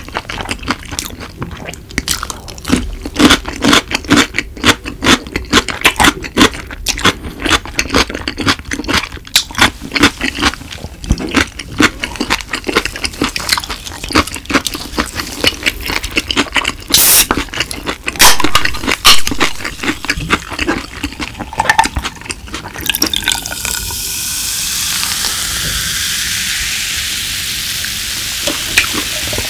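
Close-miked chewing of yangnyeom fried chicken and pickled radish cubes: a dense run of crunches and wet mouth clicks. From about 23 seconds in, Coca-Cola poured from a can into a glass mug over ice, fizzing steadily.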